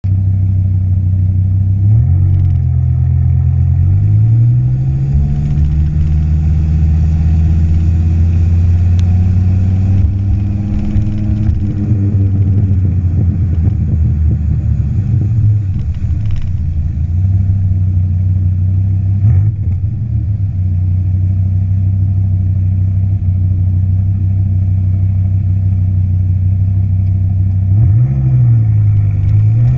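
Dodge Viper's V10 running through a Borla axle-back exhaust, mostly at a steady idle. There is a quick blip of revs about two seconds in, a slower climb in revs from about four to twelve seconds that then drops back, and another blip near the end.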